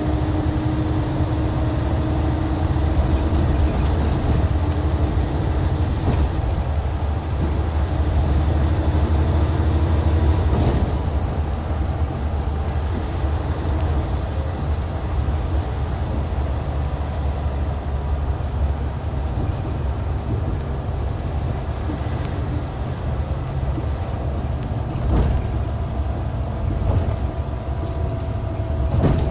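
Hyundai Universe coach's D6CC Powertec 380 straight-six diesel engine running under way, a steady low drone that eases slightly about ten seconds in.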